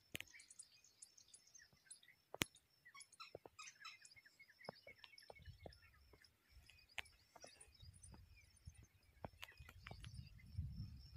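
Near silence with faint, scattered bird chirps and sharp clicks here and there. A low rumble comes in about halfway and grows louder near the end.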